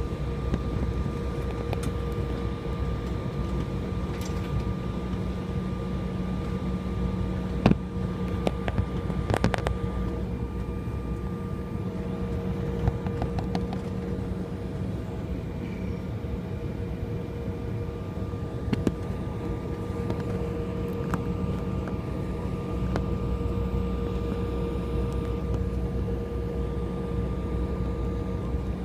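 Steady cabin hum inside an Embraer 175 regional jet, the engines and air system running with several fixed tones over a low rumble. A few sharp clicks or knocks from the cabin break in near the middle.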